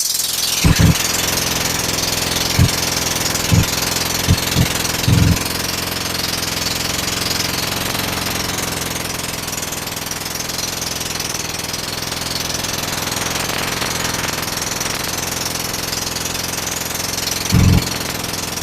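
Motor boat engine running steadily under a wash of wind and water noise, with several short low thumps in the first five seconds and another near the end.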